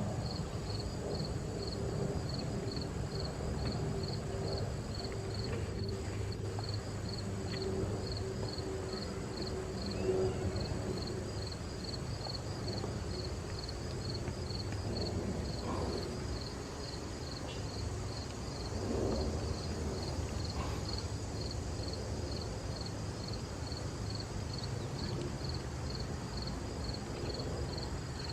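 An insect, cricket-like, chirping in a steady even rhythm of about two short high chirps a second, over a continuous low rumble.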